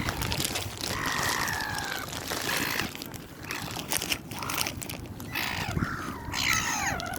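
Water birds calling: one long, slightly falling call about a second in and a cluster of downward-gliding squawks near the end, over scattered clicks and crinkling.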